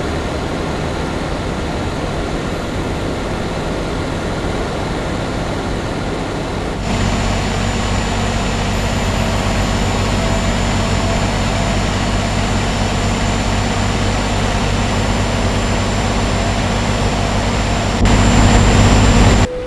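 Scania R560 truck's V8 diesel engine running steadily while hauling a heavy load, with a low, even drone under road noise. The sound steps up abruptly louder about seven seconds in and again near the end.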